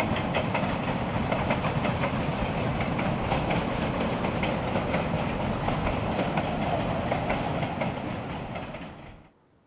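A passing train hauled by a QJ steam locomotive, its wheels clattering over the rail joints with a dense run of clicks over a heavy rumble. The sound fades slightly near the end, then cuts off abruptly.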